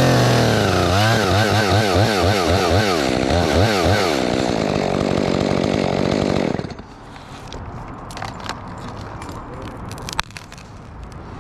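Gas chainsaw making the back cut through a fir trunk, its engine pitch rising and falling quickly several times a second as it works in the cut. About six and a half seconds in, the saw drops away suddenly, leaving a few light clicks and one sharp click.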